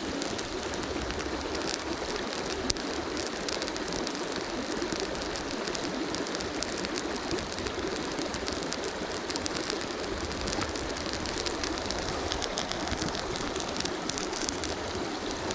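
Steady rushing of a river, with many small, quick crackles and ticks from a small fire of wooden chopsticks and damp cedar leaves catching.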